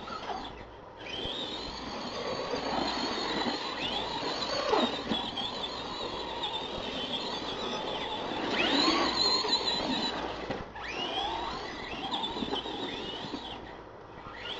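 Radio-controlled toy monster trucks' electric motors whining, the pitch rising and falling as they speed up and slow down, with brief pauses about a second in and again near the end.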